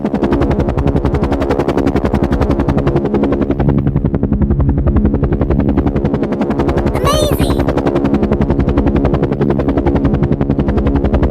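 Helicopter rotor sound: a steady, rapid, even chopping with a low hum underneath. About seven seconds in, a brief high-pitched voice-like cry rises over it.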